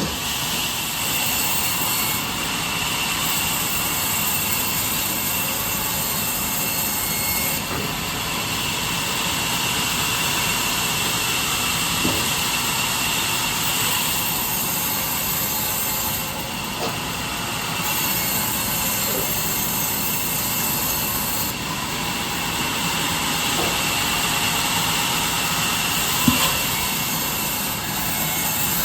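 Steady noise of a power saw running through wood in a woodworking shop, with a couple of light knocks.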